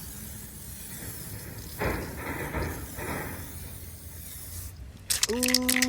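Aerosol clear coat can spraying onto a headlight lens, a soft hiss that swells for about a second around the middle. Near the end a drawn-out voiced 'ooh' comes in over crackling noise.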